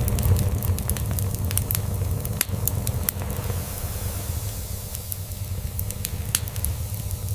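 Log fire crackling, with frequent sharp pops and snaps over a soft hiss, blended with a cat's low, continuous purr that is louder at first and eases off in the second half.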